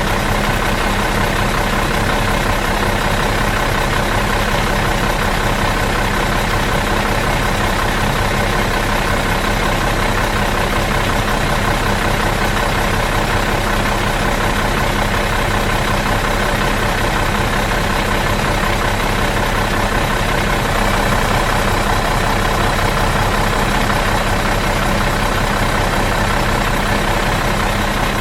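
Bus engine idling out of gear, a steady, even hum and rattle that neither rises nor falls.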